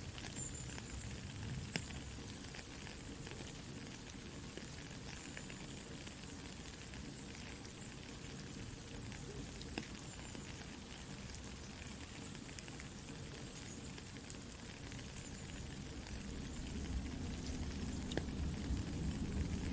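Soft rain falling with a campfire crackling: a steady hiss dotted with sharp pops, swelling a little louder near the end.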